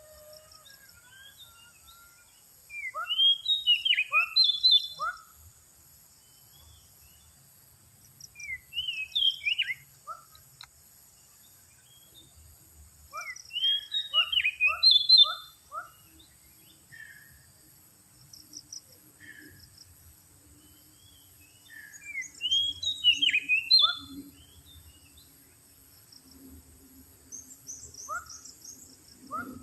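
Oriental magpie-robin (kacer) singing in about five separate bursts of clear, sliding whistled phrases, with pauses of a few seconds between them.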